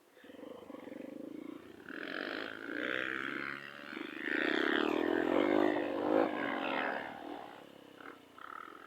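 Trail motorcycle engine revving up and down, swelling to its loudest a little past the middle and then fading.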